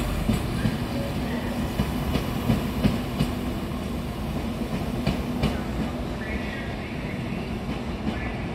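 Class 170 Turbostar diesel multiple unit pulling away: a steady diesel engine note and rumble fading gradually as the train recedes, with irregular clicks of the wheels over rail joints.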